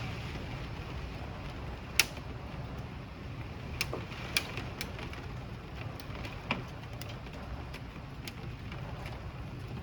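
Scattered hailstones striking hard surfaces as sharp clicks and taps at irregular intervals, the loudest about two seconds in, over a steady low rumble of storm noise.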